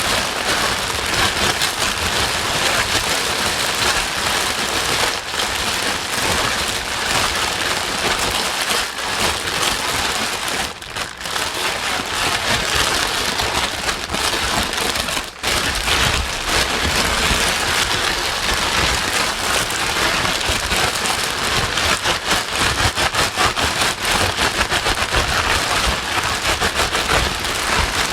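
Steady heavy rain on a surface, a dense, even hiss of many drops, played as white noise. It dips briefly about eleven and fifteen seconds in.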